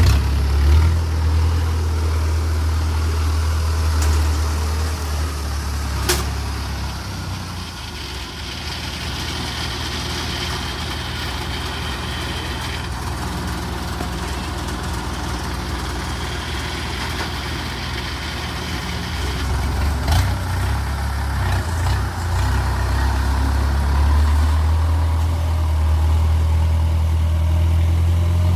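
Engine of harvesting machinery running steadily in a rice field: a deep engine drone that eases off after several seconds and grows louder again in the last third.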